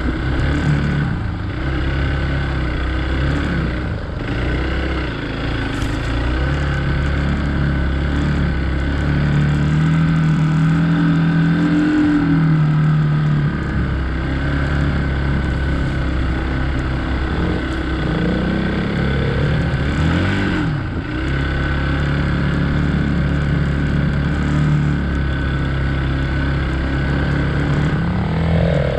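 Hero Xpulse 200 single-cylinder motorcycle engine running under load on an off-road ride, its revs rising and falling several times.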